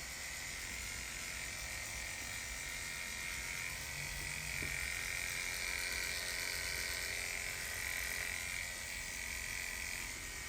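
Electric hair clipper running steadily as it shaves the scalp's donor area flat, a little louder in the middle stretch.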